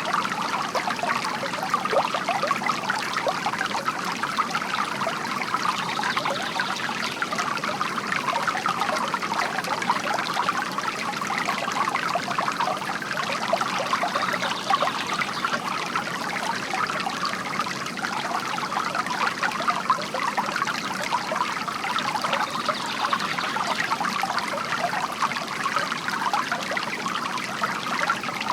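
Bamboo water fountain: a steady stream of water trickling and splashing without a break.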